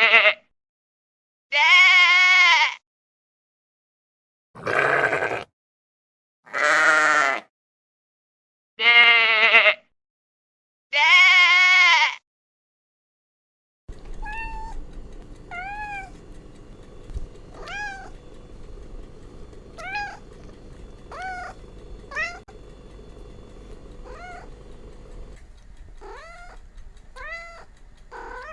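Sheep bleating: six loud, separate, wavering bleats of about a second each, with silence between. About halfway it changes to a cat mewing: short, high, rising-and-falling mews roughly every second or two over a steady background hiss.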